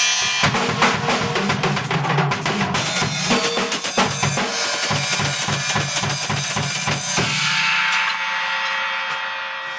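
Acoustic drum kit played in a fast run of kick, snare and cymbal hits. About seven seconds in the playing stops on a final crash, which rings out and slowly fades.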